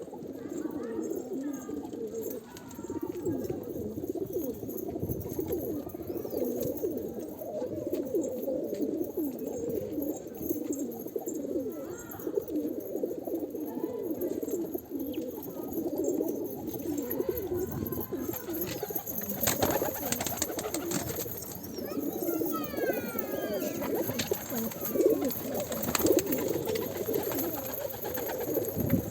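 A flock of domestic pigeons cooing continuously, many birds overlapping, with a few sharp clicks about two-thirds of the way through.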